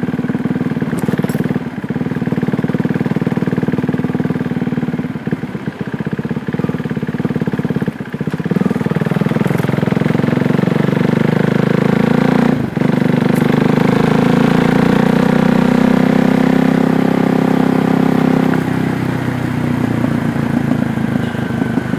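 KTM Duke 390's single-cylinder engine running under way. The revs rise and fall through the gears, with a short break in the sound about halfway through, then it pulls steadily and loudly before dropping back in the last few seconds.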